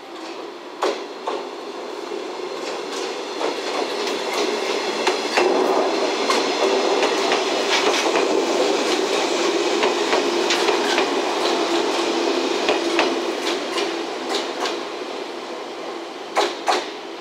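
JNR 115-series three-car electric train pulling out and passing at low speed, its wheels clicking and clacking over rail joints and points above a steady low hum. The sound builds over the first few seconds, holds, then fades near the end, where there are two sharp clacks close together.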